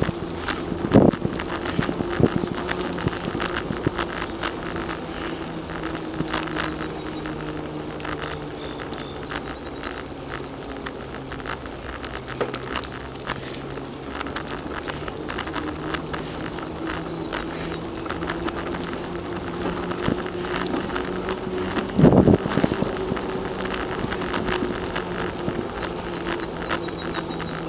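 Bicycle rolling along a paved trail: a steady hum of tyres and drivetrain whose pitch drifts slowly up and down with speed, over constant small rattles and clicks. Two loud jolts, like bumps in the path, come about a second in and again near the end.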